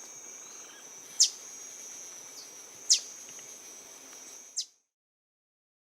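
Green honeycreeper giving three sharp, high chip calls about 1.7 seconds apart, over a steady high-pitched buzz; both stop abruptly about a second before the end.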